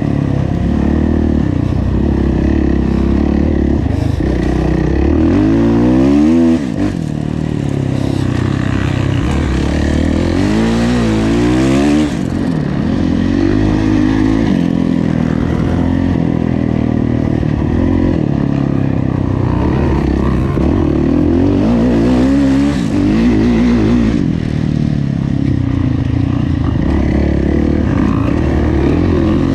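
Kawasaki KX450F four-stroke single-cylinder motocross engine running hard under racing throttle, its pitch rising and falling again and again as the rider opens and closes the throttle, with a brief cut in the sound about six and a half seconds in and again about twelve seconds in.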